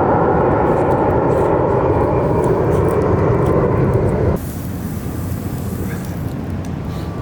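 Loud steady drone of an aircraft passing overhead, which cuts off suddenly about four seconds in, leaving a quieter steady outdoor rumble.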